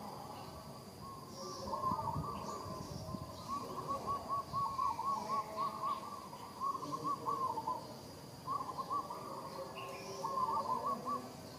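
Bird calls: runs of quick repeated notes, pausing and starting again several times, with fainter high chirps now and then.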